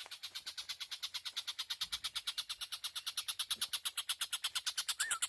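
Tengkek buto bird calling: a rapid, even pulsed trill of about ten pulses a second, growing slightly louder, with short falling whistled notes coming in near the end.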